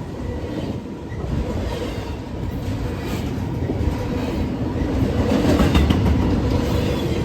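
A train rolling past close by, its wheels clattering over the rails in a steady rumble that grows somewhat louder over the second half.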